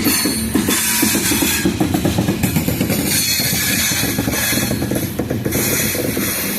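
Coal train cars rolling past: steel wheels clattering and banging rapidly over the rail joints, with a hissing rush on top.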